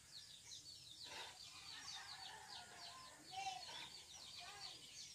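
Faint bird calls: many short, quick chirps repeating throughout, with a few lower calls among them.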